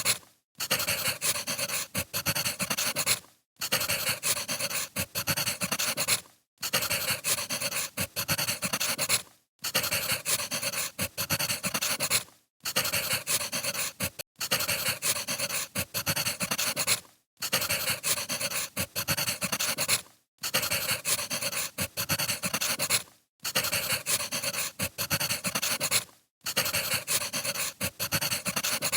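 Firewood burning with a dense crackle and hiss. It is a short recording played on a loop, so it cuts to silence for a moment about every three seconds and then starts again.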